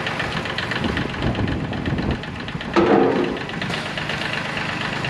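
Tractor engine running steadily, with a short vocal sound about three seconds in.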